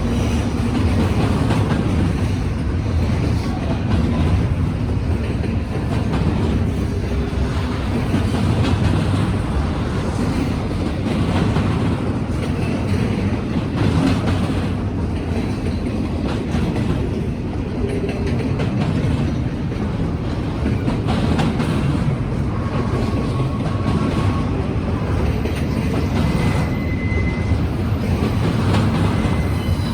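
Empty freight cars of a Norfolk Southern train rolling steadily past, a continuous low rumble with wheels clicking over the rail joints.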